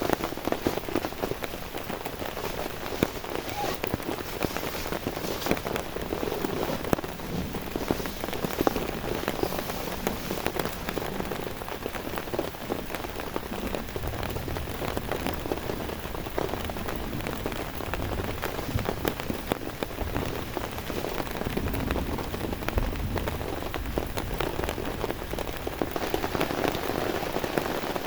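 Heavy rain falling steadily, countless drops striking a surface. From about halfway in, a low rumble sits under it for several seconds.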